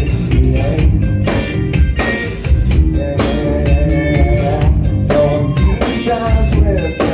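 A band playing live: loud rock music with guitar and drum kit.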